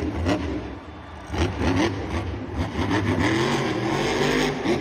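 Car engine revving sounds, the pitch rising again and again in short runs.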